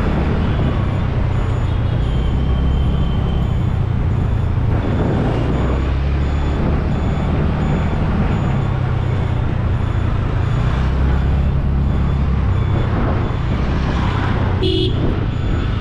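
Motorcycle riding through traffic: a steady low engine rumble under heavy wind noise on the microphone. A short horn beep sounds near the end.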